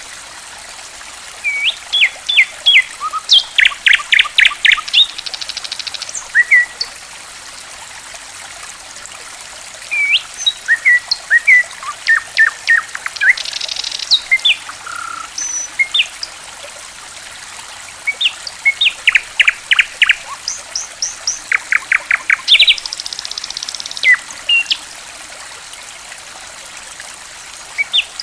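Songbird chirping and calling in bursts of quick high notes and fast repeated runs, with pauses of several seconds between bursts. A faint, steady trickle of running water goes on underneath.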